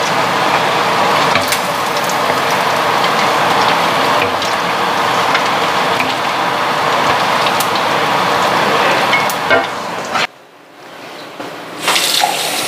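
Chicken pieces frying in shallow oil in a small pan, a steady sizzle with a few sharp clicks. The sizzle drops away suddenly about ten seconds in and returns a second and a half later.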